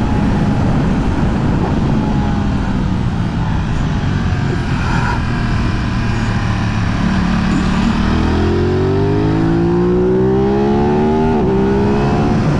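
Aprilia 660 parallel-twin motorcycle engine running under load over a rush of wind noise. About eight seconds in the revs start to climb steadily, dip briefly near the end, then keep rising.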